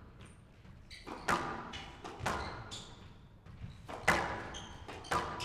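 Squash rally: the ball cracks off rackets and the court walls in sharp hits about a second apart, with short high squeaks of court shoes on the wooden floor.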